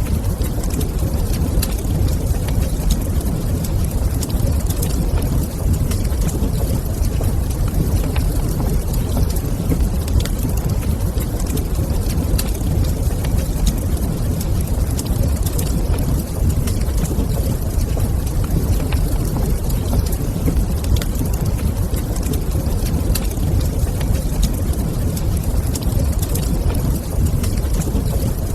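Wood fire in a fireplace crackling, with scattered small pops over a steady low rumble.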